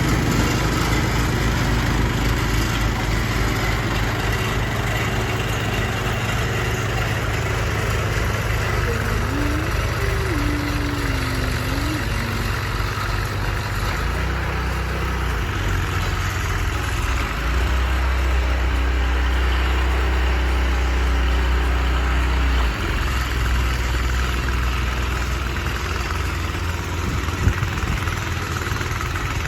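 Gas snowblower engine running steadily while clearing a driveway. Its low rumble shifts as it works: heavier for several seconds past the middle, then dropping off suddenly.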